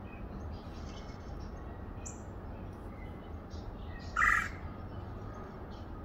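A single loud, harsh bird call about four seconds in. Faint short chirps of other birds come and go under a steady low background rumble.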